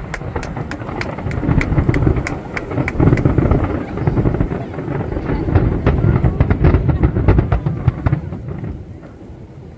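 Fireworks display: many crackling pops over a continuous low rumble of bursts, dying down near the end.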